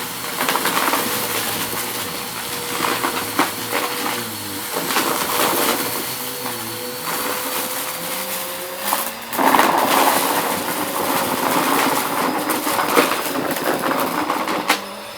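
Vacuum cleaner running over a rug, its motor giving a steady hum while crunchy debris is picked up with constant crackling and clicking. The crackling gets louder and busier about two-thirds of the way through.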